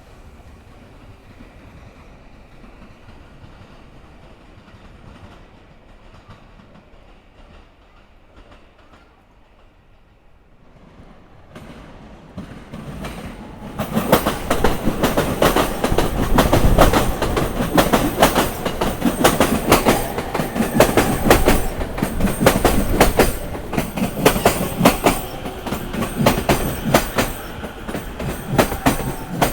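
A JR Sobu Line train comes closer after a quiet stretch of about eleven seconds, then runs loudly over the rail joints from about fourteen seconds in. Its wheels clack over each joint in a fast, dense rattle.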